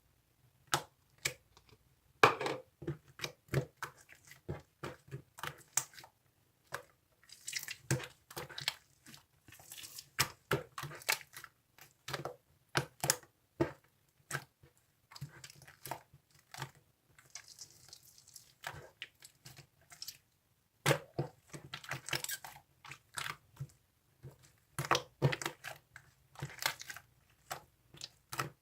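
Slime being squeezed, stretched and poked by hand: irregular sticky clicks and crackling pops, some coming in quick runs, with brief pauses between handfuls.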